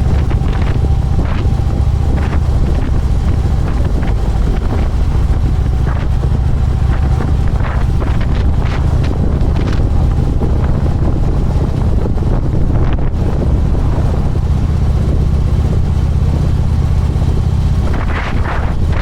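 Harley-Davidson Electra Glide's V-twin engine running steadily under way, with heavy wind noise buffeting the camera's microphone.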